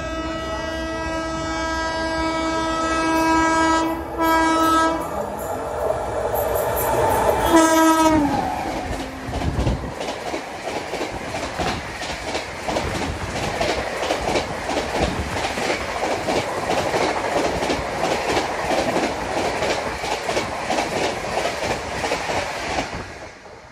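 An Indian Railways express train passing close by on the adjacent track: its locomotive horn sounds long and steady, stops, then sounds again with the pitch dropping as the locomotive goes by. Then comes the rush and fast rhythmic clickety-clack of its coaches' wheels over the rail joints, which fades away near the end as the last coach clears.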